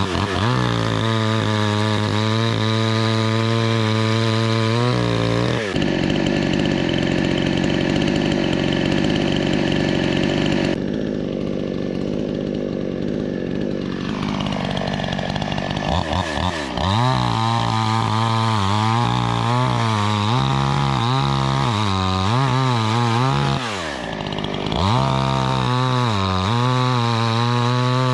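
Gas chainsaw's two-stroke engine revving hard, dropping back and revving up again several times. For about ten seconds in the middle the note turns rougher and lower, then sags further before climbing back to full revs.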